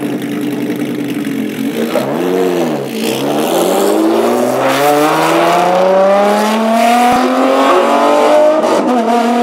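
Ferrari F50's V12 engine idling, blipped once about two seconds in, then pulling away hard, its note rising steadily for several seconds with a brief dip near the end.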